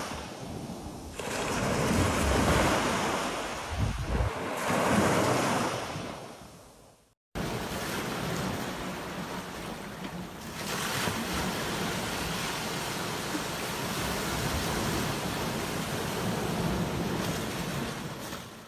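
Sea waves washing onto a beach. Two surges swell and ebb in the first few seconds, then fade out. After a cut comes a steady rush of surf with wind on the microphone.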